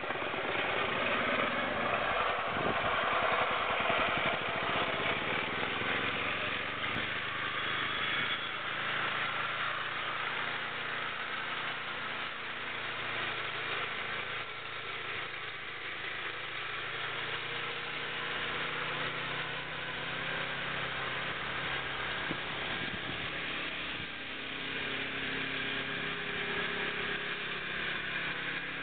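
Small engine running steadily, its speed drifting up and down a little.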